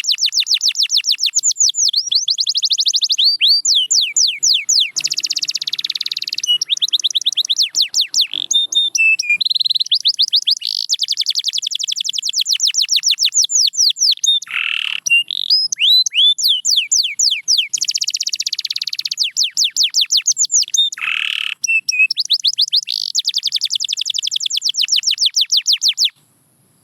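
Domestic canary singing a long song of rapid trills, each a fast run of repeated down-slurred whistled notes, switching to a new trill every second or two, with a couple of short lower notes around the middle. The song stops abruptly near the end.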